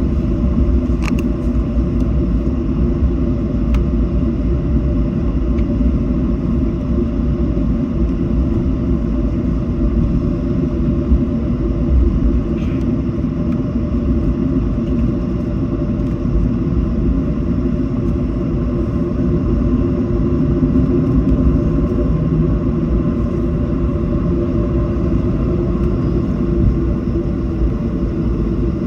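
Steady low rumble of a Boeing 737 heard inside the cabin while the airliner taxis after landing, its jet engines at idle. A couple of faint clicks come in the first few seconds.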